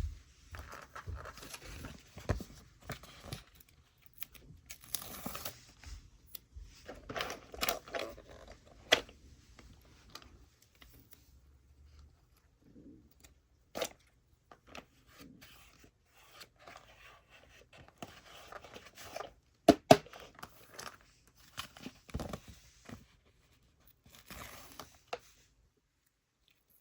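Close-up handling of toy packaging: intermittent tearing, rustling and crinkling of cardboard and plastic, with a few sharp clicks, the loudest a pair about twenty seconds in.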